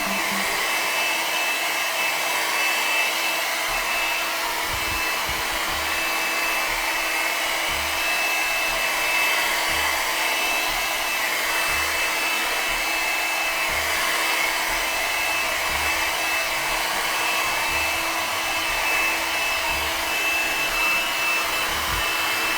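Mini handheld hair dryer running steadily: an even rush of blown air with a constant high motor whine.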